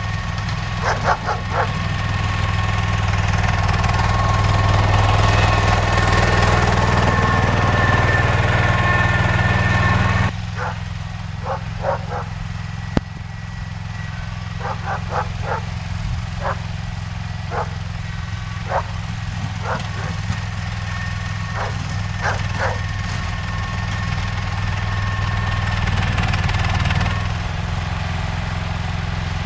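John Deere 316 garden tractor's engine running steadily while pushing snow with its front plow; the engine note shifts abruptly about ten seconds in. Short, sharp, barking-like sounds come through repeatedly over the engine in clusters of two to four.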